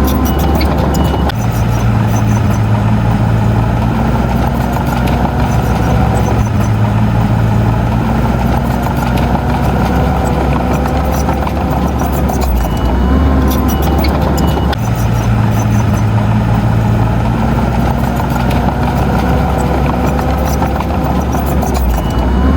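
Heavy diesel engine of earthmoving machinery running steadily, its low engine note shifting a little a few times.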